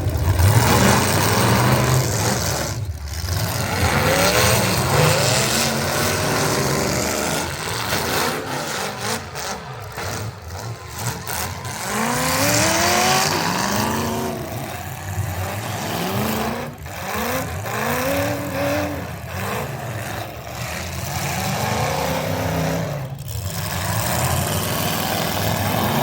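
Pro-class pulling truck's engine running at high revs under heavy load through a pull, its pitch surging up and dropping back again and again as it fights the sled.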